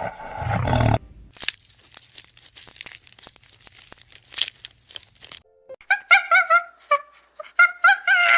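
A deep animal roar ends about a second in. Then come a few seconds of faint, irregular crunching and clicking. From about two-thirds of the way through, a run of short, pitched honking calls follows, several a second.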